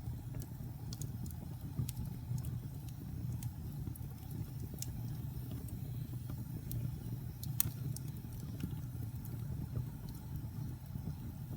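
Wood fire burning in a fireplace: a steady low rumble of flames with scattered sharp crackles and pops, one louder pop about two thirds of the way through.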